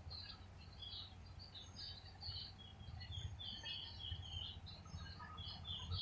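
Small birds chirping: short high notes, scattered at first and then in a quick run of falling chirps in the second half, over a faint steady low hum.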